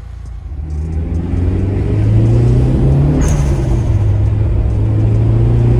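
Car engine pulling away and accelerating, getting louder over the first two seconds. Its low note rises until about three seconds in, then drops back and holds steady.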